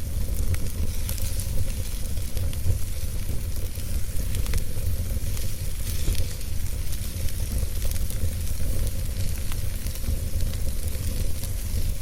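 Wood fire burning with steady crackling, many small sharp pops scattered over a low rumble of flame.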